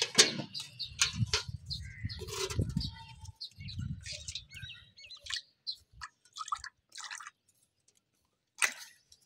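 Small caged birds chirping in short, high calls that come and go throughout. In the first three seconds there is also a splash of spilled water and a low rumble.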